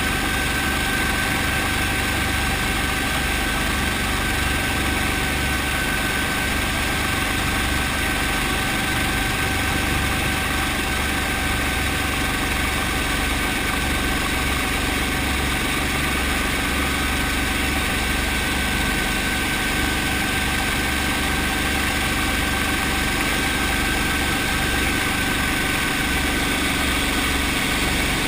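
Brantly B2B helicopter's four-cylinder Lycoming piston engine running steadily, a low throb with a steady high whine over it.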